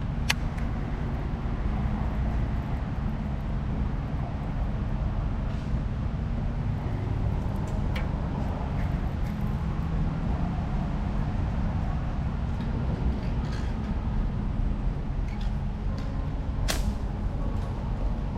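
Steady low rumble of outdoor background noise, with a few sharp clicks: a loud one near the end, others near the start and about 8 seconds in.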